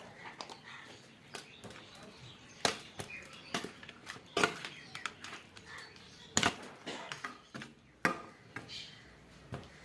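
Irregular clicks and knocks of kitchen utensils and dishes being handled, a handful of louder sharp knocks scattered among lighter clicks.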